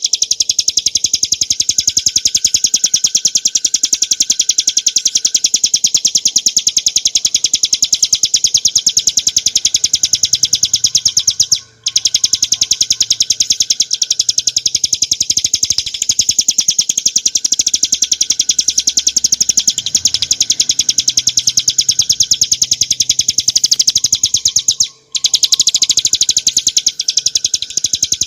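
Ciblek gunung, a small prinia, singing a rapid, unbroken stream of sharp, high chirping notes. The song cuts off briefly twice.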